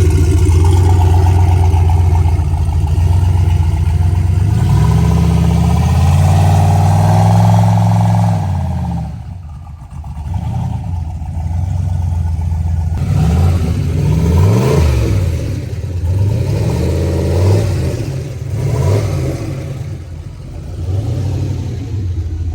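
Turbocharged 5.3 LS V8 (aluminium LC9) in a Nissan Hardbody truck running loud. Its pitch climbs and falls off around a third of the way in, then it is revved up and down several times.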